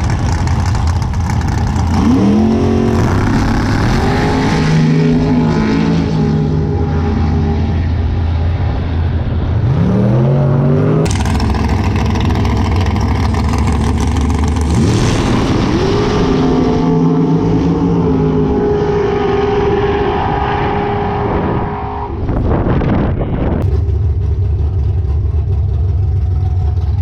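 Drag racing cars launching and accelerating hard, engine pitch climbing sharply several times. On the last run the engine holds at high revs for several seconds.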